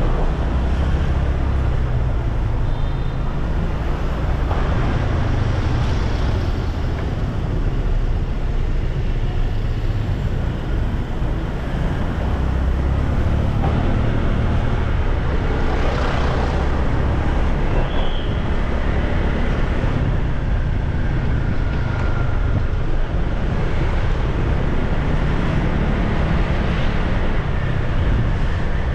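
Steady wind rush on the microphone of a moving motorbike, with the bike's engine and the surrounding road traffic underneath.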